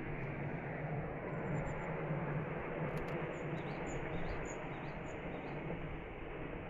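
A small bird gives a brief high trill, then from about three seconds in a run of about five short high chirps, roughly two a second. Underneath is a steady outdoor background noise with a low hum.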